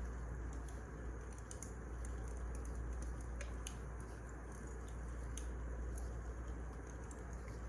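Wood fire crackling: irregular sharp crackles over a steady low rumble and soft hiss.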